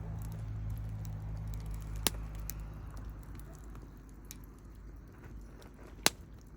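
Wood campfire crackling, with two sharp pops, one about two seconds in and a louder one near the end, over a low engine hum that fades out about halfway.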